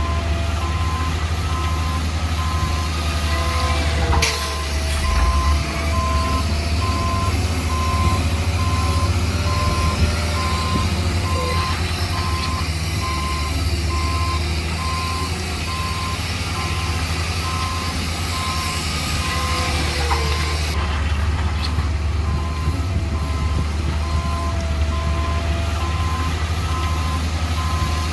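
Heavy construction vehicle's diesel engine running with a steady low rumble while its reversing alarm beeps at an even rhythm, signalling that the machine is backing up.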